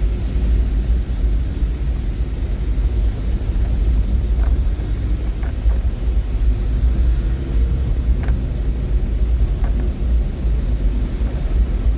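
Steady low rumble of a running vehicle, with a few faint ticks.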